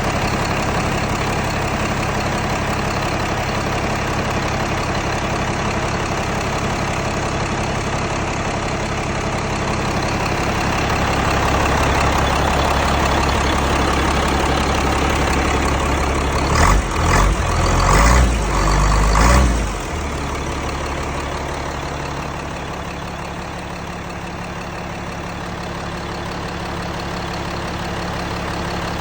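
Komatsu 125 diesel engine running steadily. Partway through it picks up, then gives a few short, loud surges of revving before settling back to idle.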